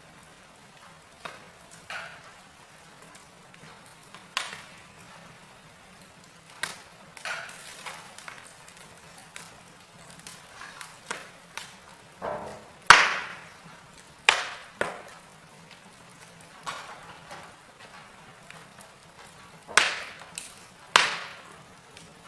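Wood fire in a fireplace crackling, with irregular sharp pops of burning logs; the loudest pops come a little past halfway and twice near the end.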